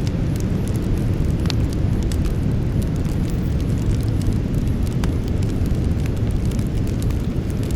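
Campfire burning: a steady low rush of flame with scattered crackles and pops of burning wood, a sharper pop about one and a half seconds in.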